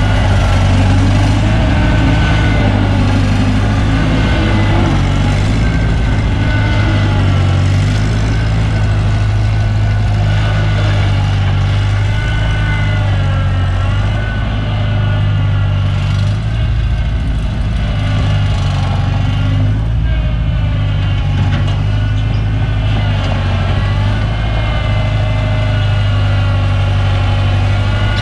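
Gas engine of a New Holland L775 skid steer running steadily at an even, low pitch, with higher tones that waver slightly.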